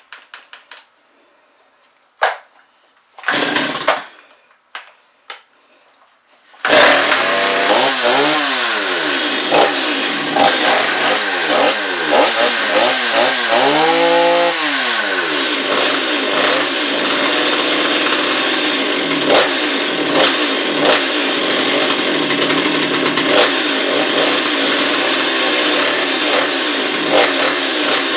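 Two-stroke Stihl chainsaw engine being pull-started: a few short pull bursts, then it fires about seven seconds in and keeps running. It is revved up and down several times, then holds a steady high speed. It runs pretty good but needs a little carburettor fine tuning, by the owner's account.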